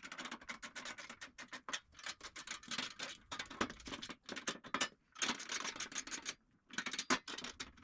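Ratchet wrench clicking in quick runs of sharp ticks, with short pauses between strokes, as a nut is run down on a caster's threaded stem.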